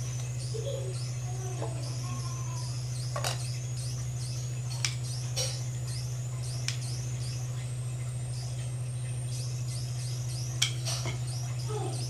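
Small birds chirping over and over in short falling calls above a steady low hum, with a few sharp clicks, the loudest about ten and a half seconds in.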